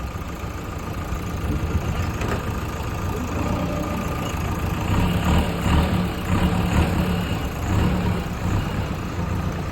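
Heavy machinery engine running steadily, growing louder and more uneven about halfway through as it works under load.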